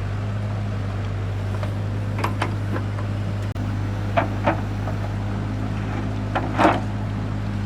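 An engine or motor running steadily at constant speed, with a handful of short sharp knocks over it.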